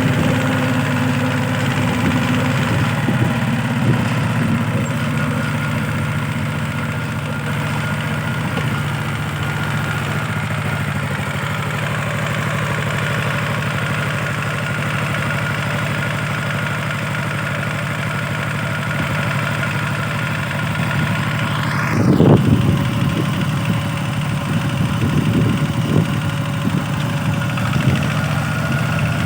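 A walk-behind tractor's small diesel engine runs steadily. About three-quarters of the way through it turns louder and rougher for a moment, and then runs unevenly.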